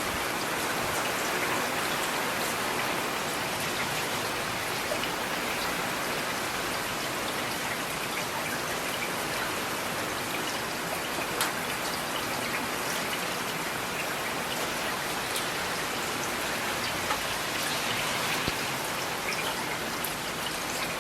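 Steady rain falling, a dense even hiss with scattered individual drops ticking close by.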